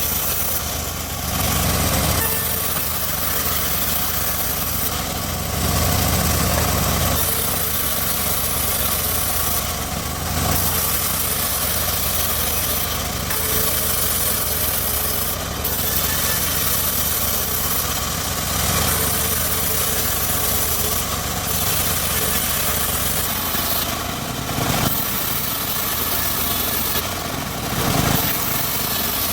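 Homemade engine-driven circular sawmill running steadily, its engine and saw giving a continuous mechanical drone that swells slightly every few seconds.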